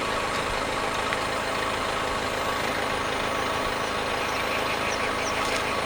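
Car engine idling steadily, its exhaust feeding into a giant latex balloon tied over the tailpipe to inflate it.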